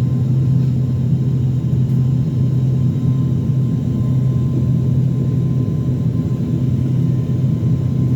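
ATR 72-600's Pratt & Whitney PW127 turboprop engines and propellers running, a loud steady low drone with an even hum, heard from inside the passenger cabin.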